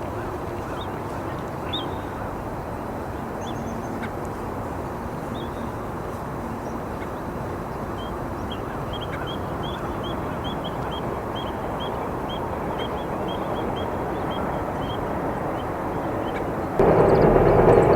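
Dusky thrush calling: scattered short, high call notes, then a quick chattering run of about three calls a second. Under it is a steady background rumble that jumps suddenly louder near the end.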